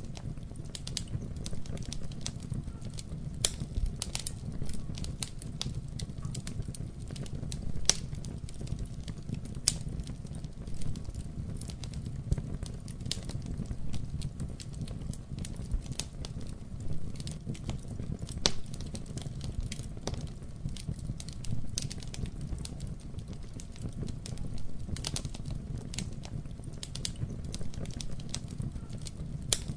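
Wood fire crackling in a fireplace: irregular sharp pops and snaps, several a second, a few louder than the rest, over a steady low rumble of burning flames.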